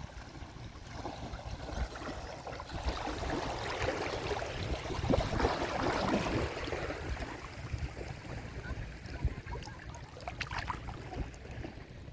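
Sea waves washing onto a beach: a wave builds to a peak about halfway through and then drains back, over a steady low rumble.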